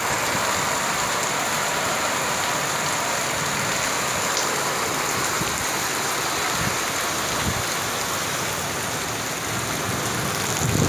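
Heavy rain pouring steadily onto a wet paved street, an even hiss.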